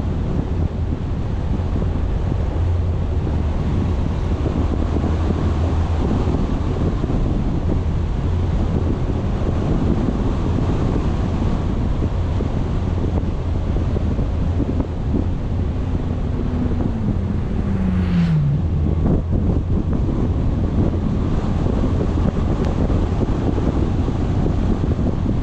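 Wind buffeting the microphone over the steady rumble of a vehicle on the move, with a short falling tone about two-thirds of the way through.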